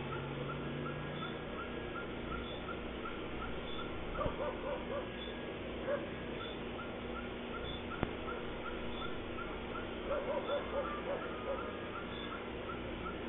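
Animal calls: a steady run of short, high chirps at about three a second, and twice a quick burst of four or five lower yelps, about four seconds in and again near ten seconds.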